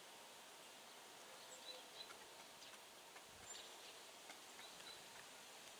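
Near silence: a faint steady hiss with a few brief, faint bird chirps scattered through it.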